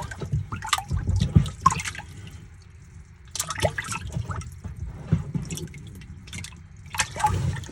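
Water splashing and dripping in irregular bursts, with a few sharp clicks.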